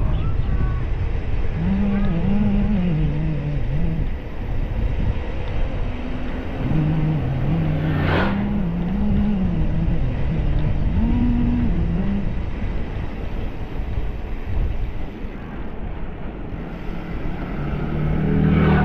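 Vehicle engine running while under way, its pitch rising and falling, over a deep rumble of wind and road noise. A brief sharp noise comes about eight seconds in, and another at the very end.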